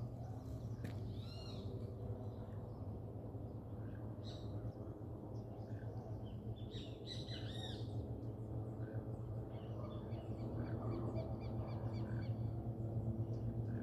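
Wild birds calling, with a few loud arched calls and, about ten seconds in, a quick run of repeated high notes, over a steady low hum.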